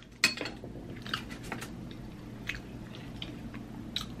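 Close-miked chewing and mouth sounds while eating baked beans: soft wet chewing with scattered short clicks and smacks at irregular intervals.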